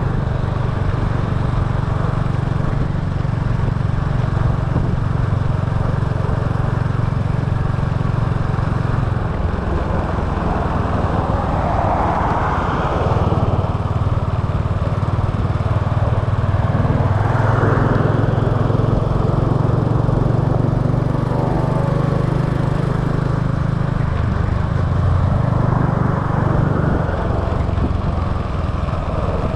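Small motorbike engine running steadily under way, its low hum easing briefly twice. Twice a louder rushing sound swells and fades, about twelve and eighteen seconds in.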